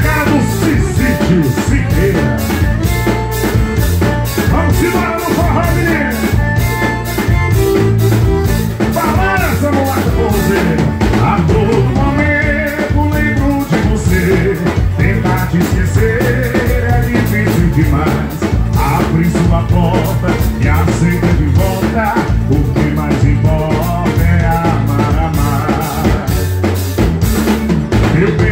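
A forró band playing live: an instrumental passage over a steady, driving drum beat, with a melody line on top.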